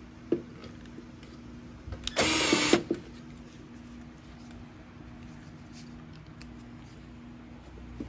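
A small power tool whirs in one short burst of about half a second, likely tightening a fastener on a small engine's carburetor. A sharp click comes a couple of seconds before it, and a faint steady hum runs underneath.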